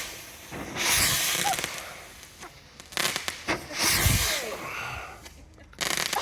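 Small consumer fireworks going off: about four bursts of crackling and hissing over a few seconds, some ending in a sharp pop.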